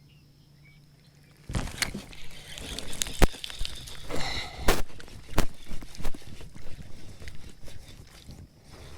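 A run of sharp knocks and clatter with rustling between them, starting about a second and a half in and easing off near the end.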